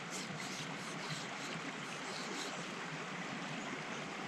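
Small stream running: a steady rush of flowing water.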